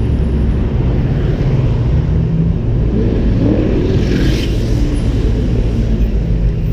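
Ford Mustang's engine and exhaust running as the car cruises, a steady low rumble with road noise, heard from a camera mounted on the outside of the car. About four seconds in, a passing motorcycle adds a brief rising whine and hiss.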